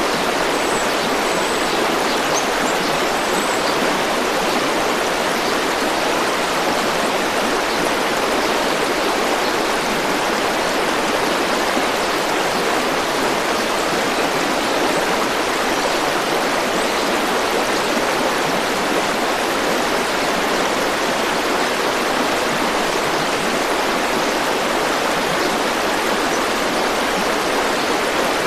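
River water flowing and rushing, a steady even noise that does not change.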